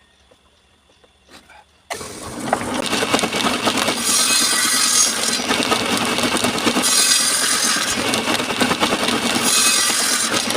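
A power tool working wood starts abruptly about two seconds in after a near-silent pause and runs steadily and loudly. Its hiss swells and fades every two to three seconds.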